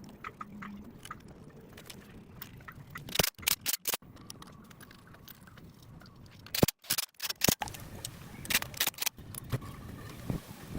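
Sharp knocks or taps in three short clusters, each a few strikes within about a second, over a faint steady background.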